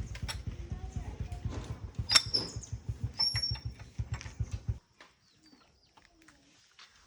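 An engine running with an even low pulse, which cuts off abruptly about five seconds in; faint bird chirps are left after it stops.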